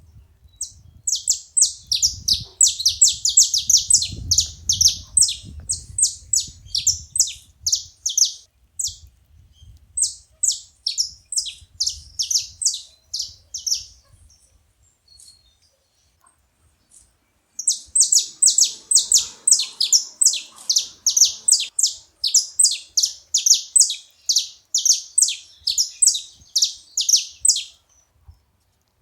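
Saffron finch calling: long runs of quick, sharp high chips, several a second, in two stretches separated by a pause of a few seconds.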